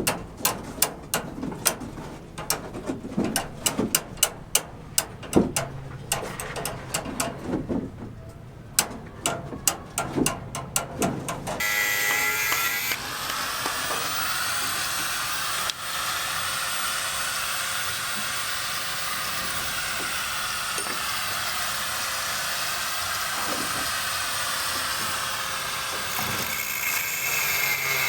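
A rapid, irregular run of sharp knocks and clicks, then about a third of the way in a power tool starts and runs steadily, its pitch wavering slightly as it works.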